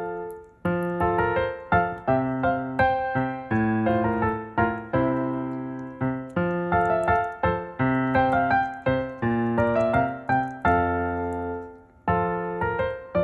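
Background music of solo piano, notes and chords struck one after another and left to fade.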